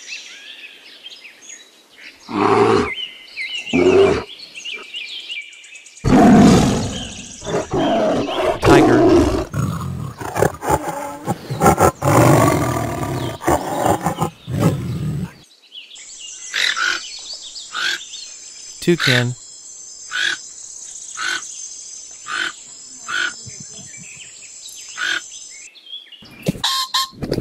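A run of wild animal calls. First a bear gives two short calls, then a tiger growls and roars for about nine seconds, then a toucan calls over and over in short calls about two a second, with a steady high-pitched tone behind them.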